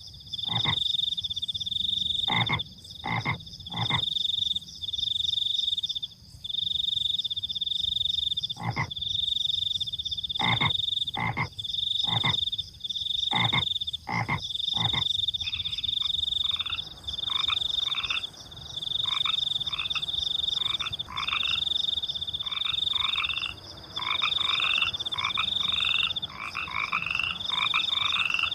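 A night chorus of frogs croaking over crickets chirping in a high trill that comes in repeated blocks about a second long. In the first half, sharp single frog calls come every second or so. From about halfway through, several frogs call rapidly in short overlapping notes.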